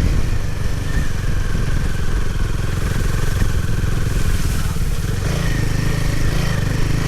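Motorcycle engine running steadily as the bike is ridden off-road, with a slight change in its note about five seconds in.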